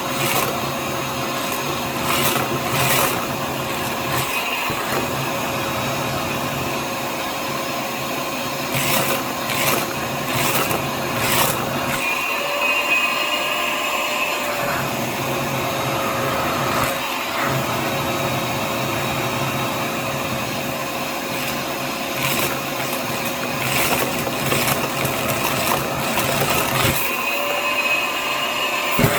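Hyper Tough vacuum cleaner running steadily with a motor whine, with bursts of sharp clattering from small beads being sucked up. Twice, for a couple of seconds, the low rumble drops out and the whine goes higher.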